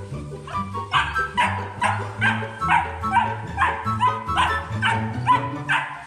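Dog yips and barks about twice a second, in time with background music over a steady bass line.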